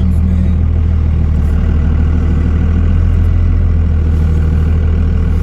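Pickup truck engine idling steadily with a low hum, just after being started.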